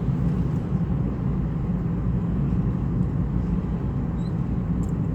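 Steady low rumble of a car on the move, heard from inside the cabin: tyre, engine and wind noise with no break.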